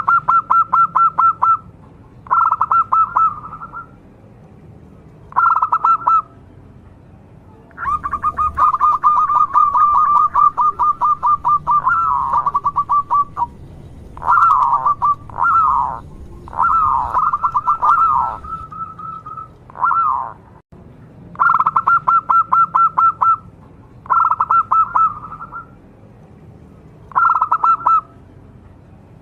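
Zebra dove (perkutut) cooing: repeated phrases of rapid staccato coos, about ten bouts in all with short pauses between them and one long run in the middle.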